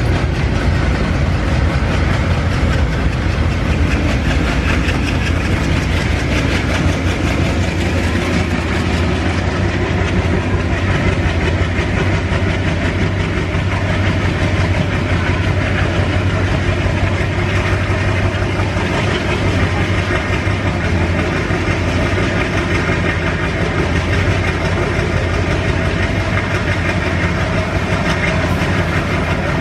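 Train running at speed on the track: a loud, steady rumble of wheels on rails over a deep low drone.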